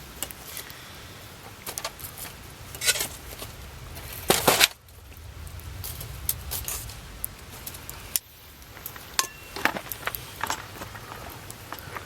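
Wood campfire crackling, with irregular sharp pops and snaps over the low steady rumble of the burning fire; a louder cluster of cracks comes about four seconds in.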